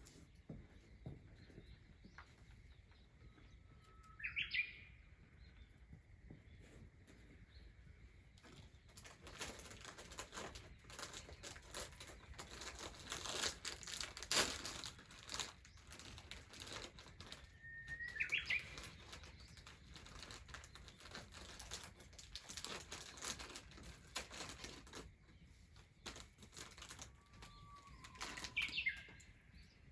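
A bird calls three times, each call a short note that slides up and breaks into a quick higher burst. In the middle stretch, a dense run of soft crackling clicks.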